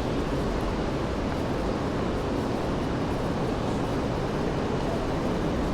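Steady city street ambience: a continuous low rumble of traffic, even throughout, with no distinct passing vehicle, horn or footstep standing out.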